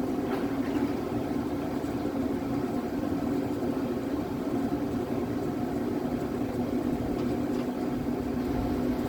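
Electric boat motor running steadily with a low, even hum.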